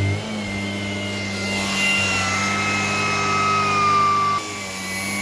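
Shark PowerDetect vacuum running: a steady motor hum with high whining tones that drift slowly in pitch. The sound steps down in loudness just after the start and again about four seconds in.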